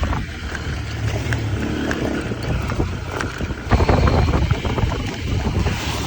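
Hero Impulse 150's single-cylinder four-stroke engine running under load as the dirt bike is ridden off-road, with wind buffeting the microphone. The engine gets louder a little past halfway, as it is revved harder.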